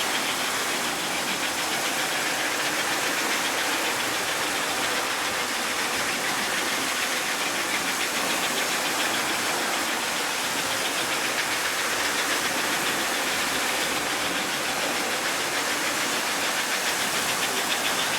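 Vintage American Flyer S-gauge toy steam locomotive running on its track: a steady electric motor whir with a fine, rapid rattle of the wheels and gears.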